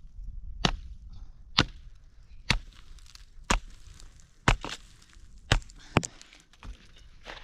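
Axe chopping wood: sharp, single strikes at a steady pace of about one a second.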